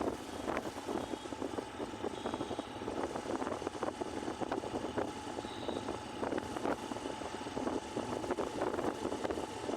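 Honda CB Shine 125 motorcycle with its single-cylinder engine running, under a steady noisy wash with frequent short gusts of wind buffeting on the microphone.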